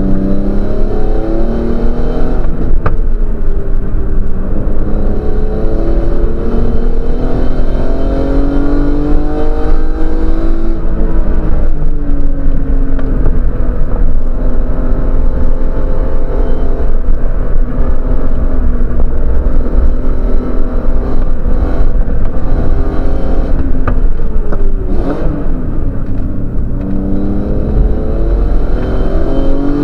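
Racing car's engine heard from inside the cabin, running hard at lap speed with road and wind noise. Its pitch climbs slowly under acceleration for about ten seconds, drops, and near the end dips briefly before climbing again.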